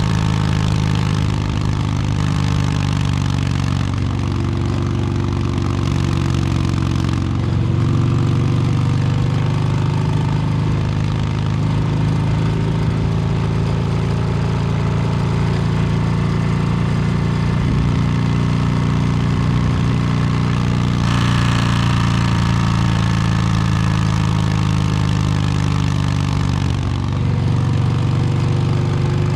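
Harley-Davidson Milwaukee-Eight 117 V-twin running through an S&S Superstreet 2-1 exhaust while riding, the engine note shifting up and down several times with throttle and gear changes.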